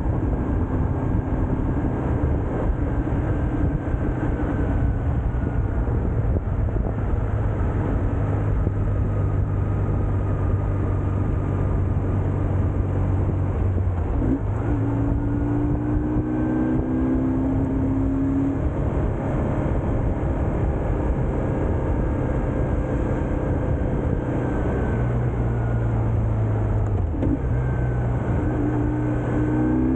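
BMW R1150GS Adventure's flat-twin engine running on the move, over a steady rush of wind and road noise. The engine note changes pitch about halfway through and again near the end.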